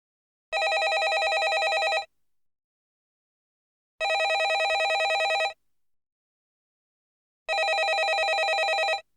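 Landline telephone bell ringing: three rings of about a second and a half each, a ring every three and a half seconds with silence between, each ring a fast, even rattle of the bell.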